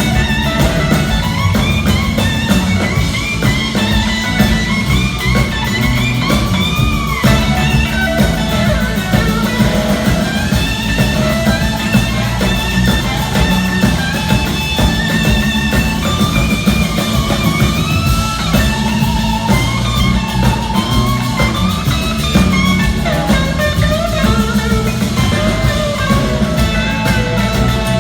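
Live rock band playing an instrumental passage: an electric guitar leads with gliding, bending notes over bass and drums.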